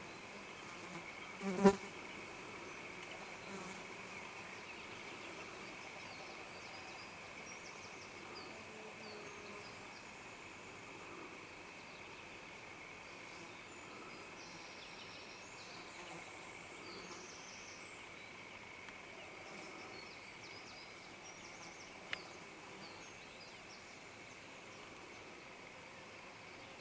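Steady high-pitched drone of insects. Near the start there is one short, loud pitched sound, and much later a single sharp click.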